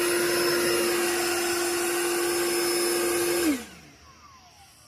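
Worx Nitro 40-volt cordless leaf blower running steadily with a high whine. About three and a half seconds in it is switched off and spins down, its pitch falling away.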